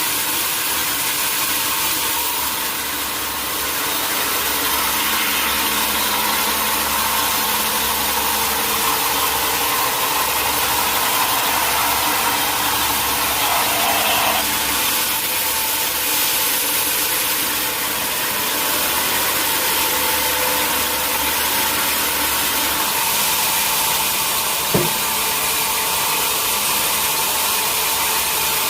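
Sawmill machinery running steadily with a constant hiss and hum. A single sharp knock comes near the end.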